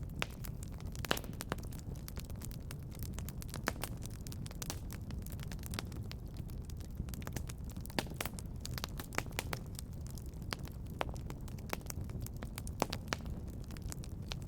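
Wood fire crackling in a fireplace: irregular sharp pops and snaps, often several a second, over a steady low rumble.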